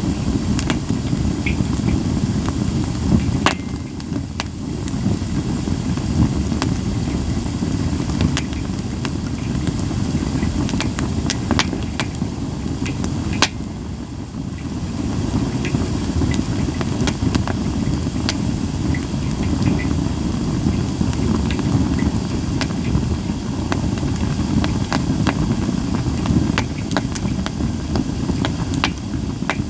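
Japanese white pine campfire crackling, with frequent sharp pops over a steady low rumble and little hiss.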